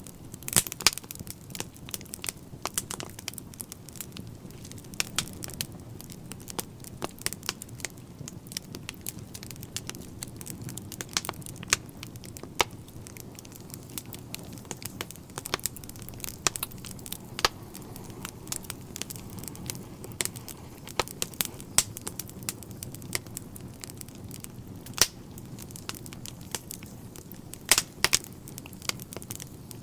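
Wood fire burning in a fireplace, crackling and popping irregularly over a steady low rush of the flames.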